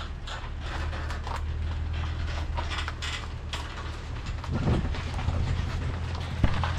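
Truck engine running low and steady while towing a boat trailer slowly, with the trailer rattling and clicking as it rolls and a sharp knock near the end.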